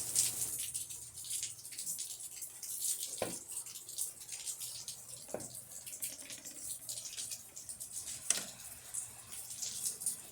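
Rain falling: a steady patter of many small drops, with three louder, heavier drops about three, five and eight seconds in.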